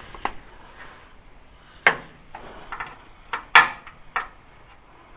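Ratchet spanner clinking and knocking against a mounting nut and the metal around it as it is worked into place: half a dozen sharp clanks, the loudest about three and a half seconds in.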